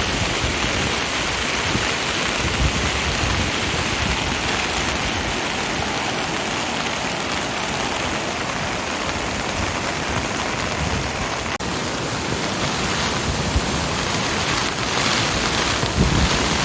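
Typhoon-swollen river rushing steadily, an even hiss of fast water. Wind buffets the microphone near the end.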